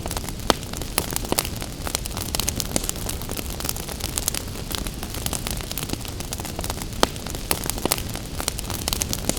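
Wood fire crackling and popping irregularly, with two sharper, louder pops, one about half a second in and one about seven seconds in, over a steady hiss of gentle rain.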